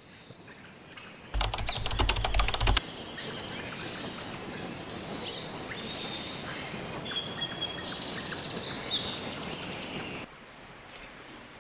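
Birds chirping and calling over steady outdoor background noise. A loud, rapid rattling burst lasts about a second and a half near the start.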